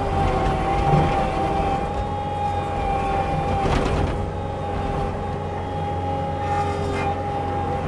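Heavy machine's diesel engine running steadily with a high, even whine from a spinning tree-mulching head, broken by a few sharp cracks and knocks of wood about one, four and seven seconds in.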